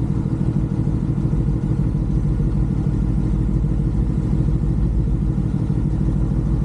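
Motorcycle engine running steadily at low revs, with no rises or drops in pitch.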